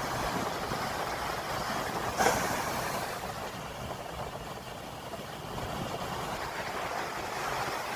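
Heavy sea surf breaking on a beach: a continuous rush of waves with one louder crash about two seconds in.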